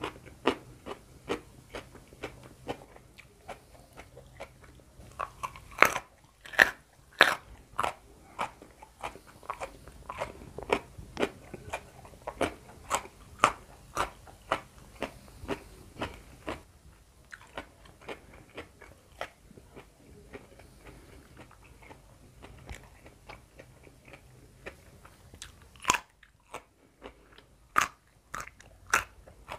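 Close-up crunching and chewing of raw young jengkol (dogfruit) dipped in sambal terasi: a quick run of crisp, sharp crunches through the first half, softer chewing after that, then a few louder bites near the end.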